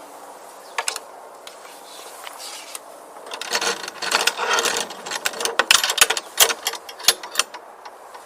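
A parrot working a lock with its beak: a scatter of sharp metallic clicks and rattles, sparse at first and busiest in the second half.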